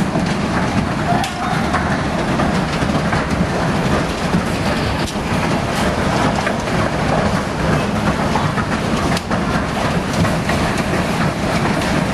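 Heavy hailstorm: hailstones and rain pelting down in a dense, steady roar, with countless sharp individual strikes.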